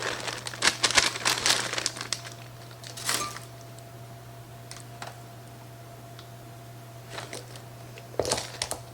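Plastic packaging crinkling and rustling as it is handled, dense for the first two seconds, with a brief rustle about three seconds in and more crinkling near the end. A steady low electrical hum sits underneath throughout.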